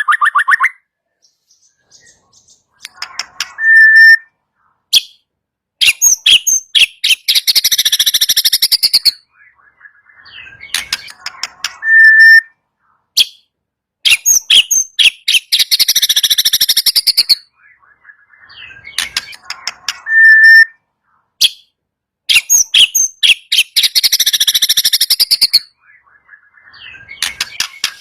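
White-rumped shama (murai batu) calls played on a loop: a short clear whistled note followed by long runs of rapid, harsh rattling ticks, the agitated 'kretekan' call. The sequence comes round about every eight seconds, three times, with abrupt silent gaps between.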